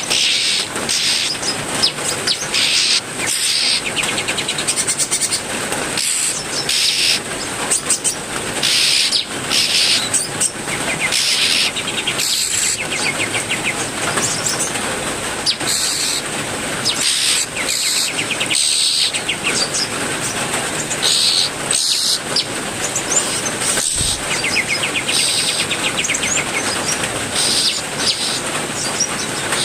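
Steady heavy rain, with songbirds in an aviary chirping and trilling in short phrases every second or two.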